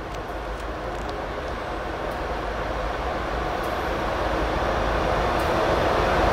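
BNSF diesel-electric locomotives at the head of a coal train approaching, their engine rumble and rail noise growing steadily louder as they near.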